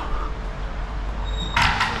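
A steady low hum, then about one and a half seconds in a loud rattling clatter of knocks and scraping begins.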